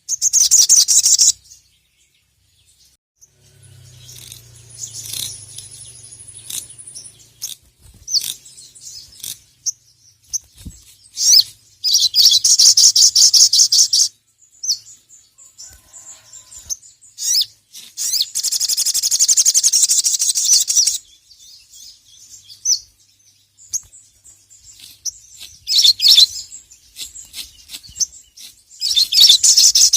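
A male sogok ontong (sogon) sunbird, the brown-throated sunbird, singing in full voice. It gives loud bursts of rapid, high trills a second or more long, about five times, with softer scattered chirps between them.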